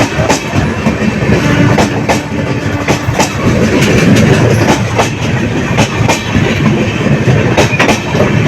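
Patna–Kashi Jan Shatabdi Express train running at speed, its wheels clattering over rail joints in a loud, continuous rumble with repeated sharp clicks.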